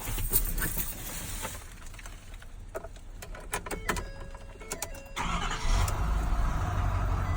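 Ford F750's 6.7-litre Power Stroke V8 diesel starting and settling into a steady idle about five seconds in, after a few clicks and short electronic tones.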